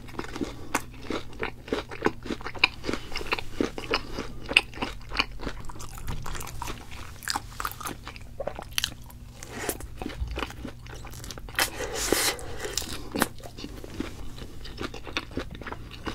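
A person biting into and chewing crunchy fried food: a steady run of small, sharp crunches, louder around twelve seconds in.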